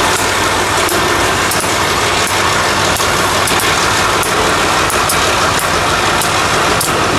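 Freight train moving: a steady, loud rumbling noise with scattered light clicks.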